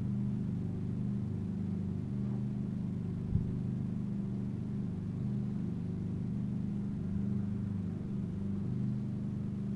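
Steady low motor hum with one short knock a little over three seconds in.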